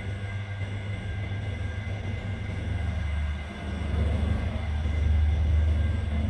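Steady low mechanical rumble, like a running engine or machine, with faint steady high tones above it; it grows louder about four seconds in.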